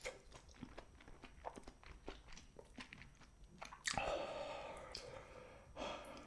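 Close-miked chewing of spicy cheese jjimdak, braised chicken and melted cheese, with many small wet clicks of the mouth. About four seconds in comes a louder sound lasting nearly two seconds.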